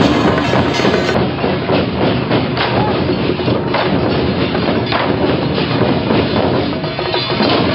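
Loud, dense din of temple procession percussion: irregular sharp knocks and clatter over a continuous wash of noise, with an abrupt change in the sound about a second in.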